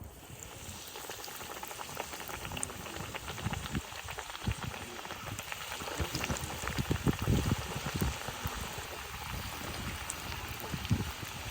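Breaded chicken tenderloins frying in hot oil: a steady sizzle with many crackling pops.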